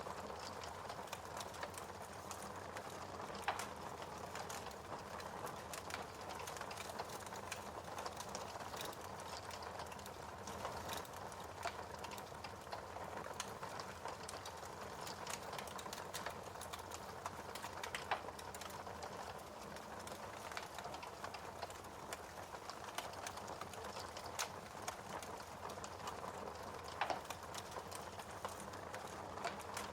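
Wood fire burning in a fireplace: a steady crackle of small irregular snaps, with a few louder pops, about three in all.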